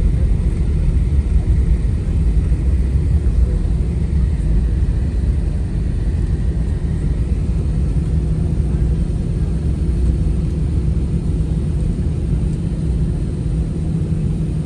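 Airliner cabin noise: the jet's engines and airframe making a steady low rumble with a constant hum, as the plane taxis after landing.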